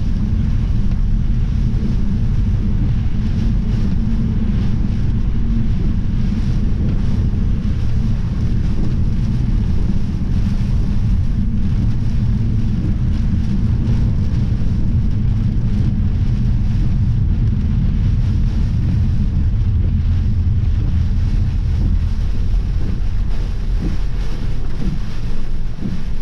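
Strong thunderstorm wind blasting the microphone: a loud, steady, low rumble.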